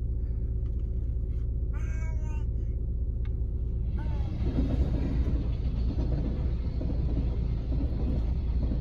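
Electric train on the Sanyo Main Line passing a level crossing: a rough rumble and rattle of wheels on rail sets in about four seconds in, over a steady low hum. A short high call comes about two seconds in.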